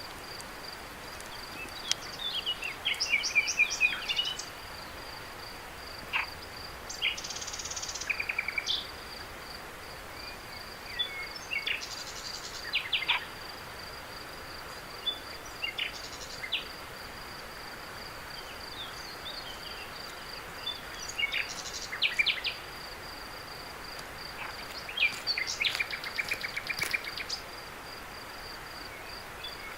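Crickets trilling steadily at a high, even pitch, with short phrases of bird chirps breaking in every few seconds over a soft background hiss.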